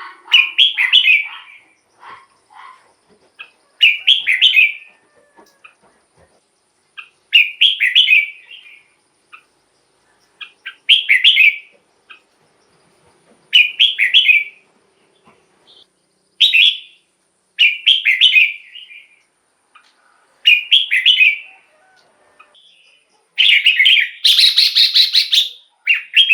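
Red-whiskered bulbul singing: short, bright song phrases repeated about every three seconds, with a longer run of phrases near the end.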